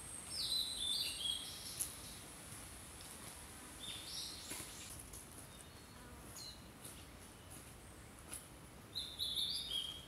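A wild songbird singing short phrases of quick stepped notes that drop in pitch, three times: at the start, about four seconds in, and near the end. A steady high-pitched drone runs behind it.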